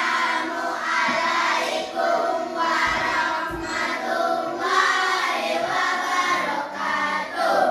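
A class of children singing a song together in unison, many voices holding sustained notes.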